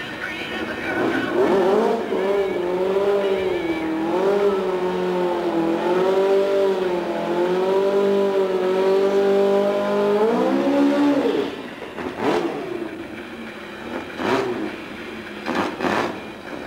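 Volkswagen Beetle drag car's engine held at high revs while spinning the rear tyres in a burnout, its pitch wavering for about ten seconds. The engine then drops back and gives a few short blips of the throttle.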